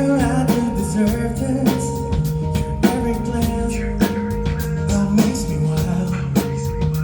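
A band playing live: a drum kit keeps a steady beat of about two hits a second under sustained bass and electric guitar notes.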